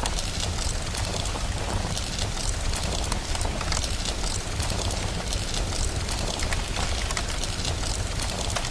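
Rain and a crackling fire: a steady hiss of rain with frequent sharp crackles and pops scattered through it, over a constant low rumble.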